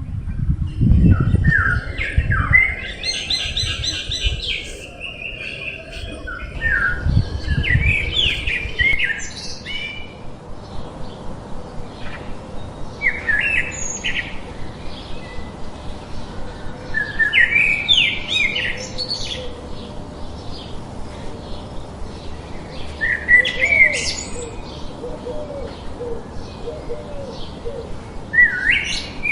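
Songbird singing, repeating a short warbled phrase every few seconds amid other chirps, with a low rumble underneath during the first several seconds.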